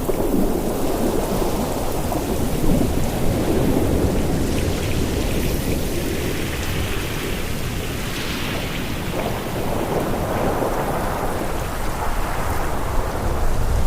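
Ocean surf: waves breaking and washing in as a continuous rushing noise over a deep rumble, swelling and easing every few seconds.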